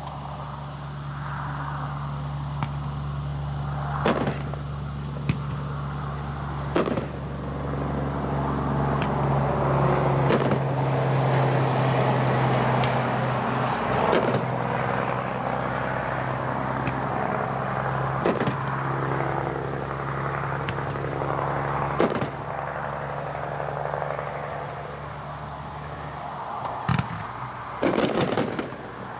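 A 21-shot 500-gram consumer fireworks cake heard from a distance, its shells bursting as separate sharp booms a few seconds apart, with a quick cluster of reports near the end. Underneath runs a steady low hum that stops shortly before that final cluster.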